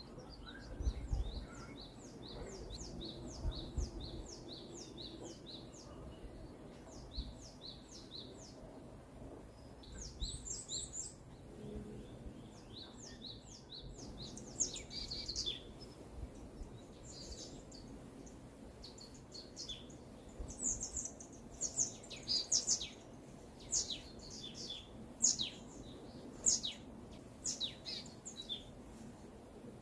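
Songbirds singing in a forest: a fast, even series of high sweeping notes repeats for the first half, then varied sharp chirps come and go, over a faint low background rumble.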